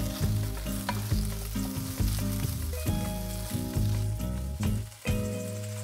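Cubes of extra-firm tofu sizzling in hot oil in a non-stick pan, over background music.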